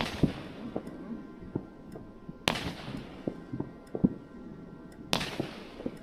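Hammer and Anvil Ultra Mine 9-shot cake (brocade with white and green glitter mines) firing single mine shots. Three sharp reports come about two and a half seconds apart, each followed by a fading hiss and a few smaller pops.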